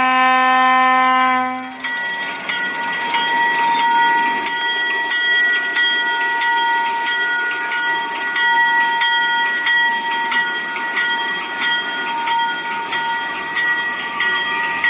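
Alco S6 diesel switcher's horn sounding and cutting off sharply about two seconds in. Then a steady, evenly struck ringing, typical of the locomotive's bell, continues over the running locomotive.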